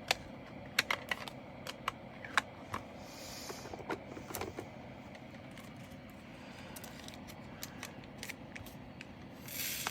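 Scattered light clicks and taps of small plastic containers and bags of resin diamond-painting drills being handled and sorted, with a short rustle near the end.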